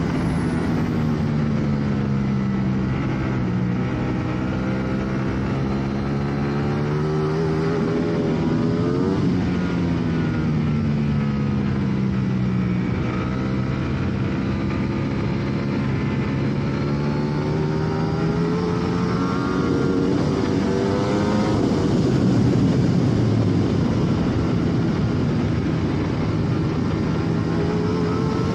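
Sport motorcycle engine at speed on a race track, recorded onboard, its pitch rising and falling over several seconds as the bike accelerates and slows through the corners, with heavy wind rush on the microphone.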